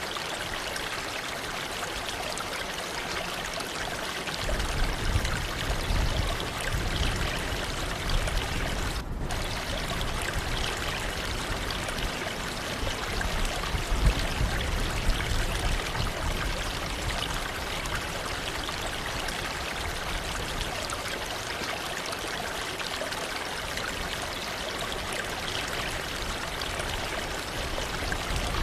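Waterfall rushing steadily, with a deeper low rumble joining about four seconds in.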